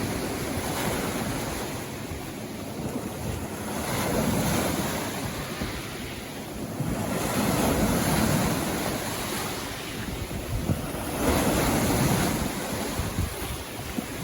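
Sea waves breaking and washing up a beach, the surf swelling in surges about every four seconds.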